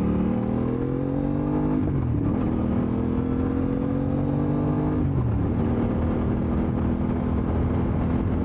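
Aprilia RS660's parallel-twin engine through an SC1-R full exhaust, pulling up through the revs. There is a quick dip in pitch about two seconds in, like a gear change, and it pulls again. The pitch drops about five seconds in and then holds steady.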